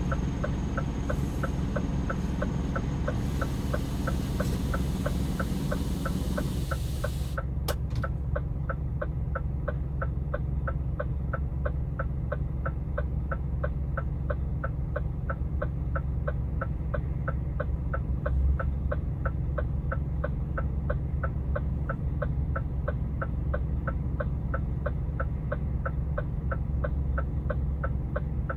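Inside the cab of a Scania R410 tractor unit: the diesel engine runs low and steady while the turn-signal relay ticks evenly, about twice a second. A hiss that fills the high end cuts off suddenly, with a click, about seven seconds in.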